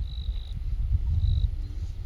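Crickets chirping: short high trills, each well under half a second, repeating about once a second. Under them runs a steady low rumble, the loudest sound.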